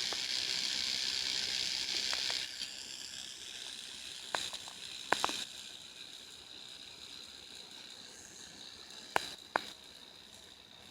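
Rotary tungsten carbide burr on a high-speed surgical handpiece running with a high steady whine, grinding louder for the first two seconds or so as it abrades the edge of a split earlobe. There are a few sharp clicks near the middle and twice near the end.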